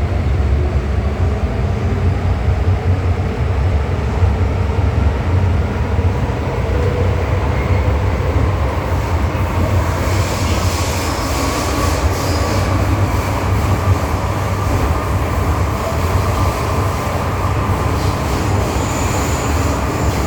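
MTR M-Train electric multiple unit running, heard from on board: a steady heavy rumble of wheels on rail. About halfway through, a higher hissing rail noise joins, with a thin high wheel squeal near the end.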